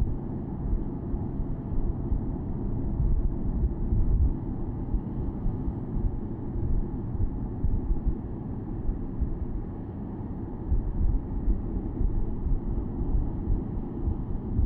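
Porsche Boxster S (987.2) driving with the top down: a steady low rumble of its flat-six engine and road noise, with wind buffeting the microphone.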